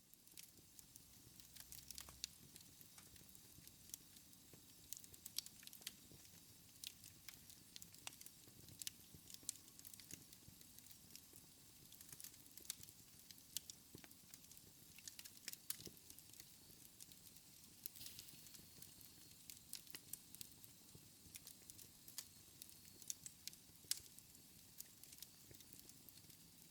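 Wood fire in a fireplace crackling faintly, with frequent irregular sharp pops over a soft steady rustle of the flames.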